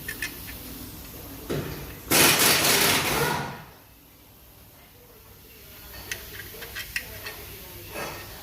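Metal parts and tools clinking and knocking as a clutch assembly is handled onto a flywheel. About two seconds in comes a loud rushing, rattling noise that lasts over a second and then fades out.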